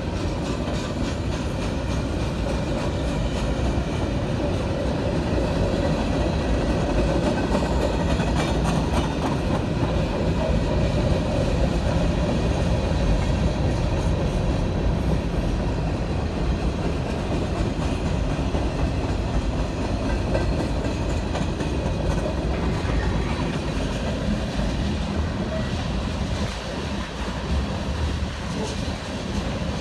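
A train rolling past on the tracks: steady noise of railroad cars and wheels on rail, easing off slightly near the end.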